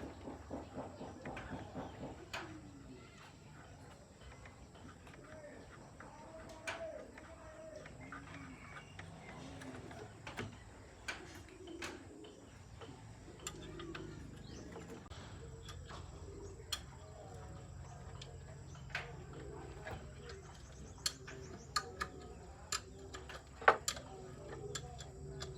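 Irregular light clicks and taps, with one sharper, louder knock about 24 seconds in, over a low steady hum.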